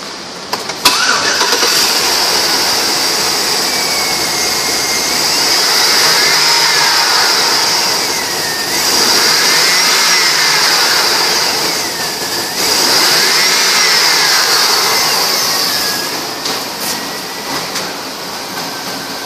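A 2005 GMC Yukon XL's Vortec V8 starts about a second in and runs. It is revved up and back down three times, then settles to idle.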